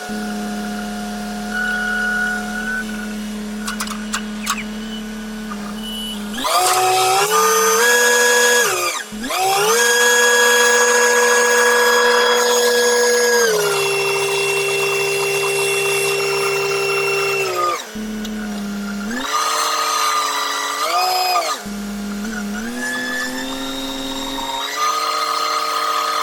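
Truck crane's engine and hydraulics running with a steady whine that steps up in pitch and back down several times as the machine is revved.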